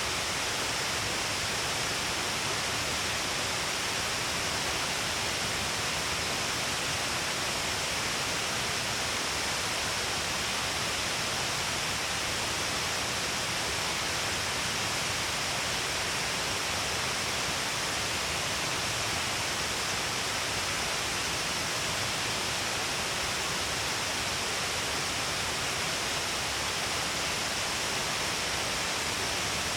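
Steady, unbroken rush of Shiraito Falls, water pouring in many falls along a broad cliff face. The sound is a dense hiss weighted toward the high end, with no change in level.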